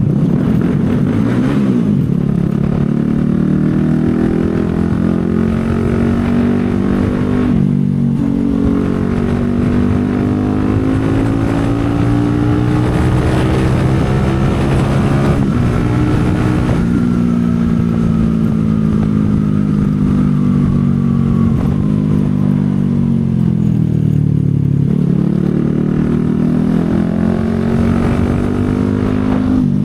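CFMoto 250SR Lite's single-cylinder engine running under way, its pitch climbing and dropping as the rider accelerates, shifts gears and eases off. There are clear breaks in the note about seven and a half and sixteen seconds in, and a long fall in pitch around twenty to twenty-five seconds before it climbs again.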